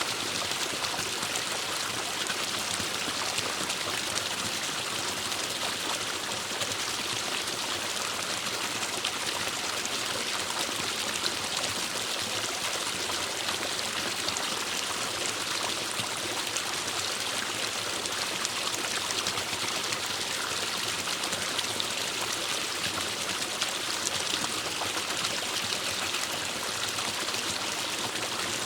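Forest stream flowing and trickling over rocks: a steady, even rush of water.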